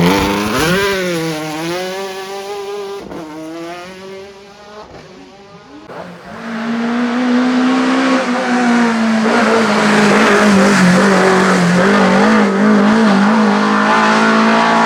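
Race car engine at full effort on a hillclimb: its pitch climbs and drops over the first few seconds with gear changes and lifts, fading somewhat. Then a louder engine holds high revs at a nearly steady pitch, wavering slightly.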